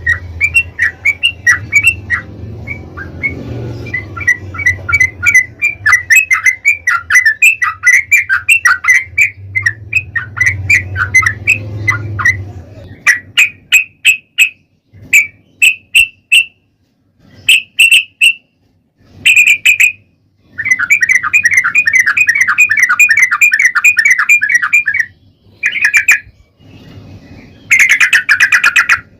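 Yellow-vented bulbul (trucukan) singing in fast runs of bright, chattering notes broken by short pauses: the long rapid 'ropel' song used as a lure to make other trucukan answer. A low rumble sits under the song during the first half.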